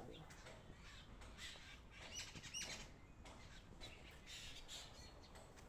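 Faint bird calls, with a couple of short chirps a little after two seconds in, over quiet outdoor background.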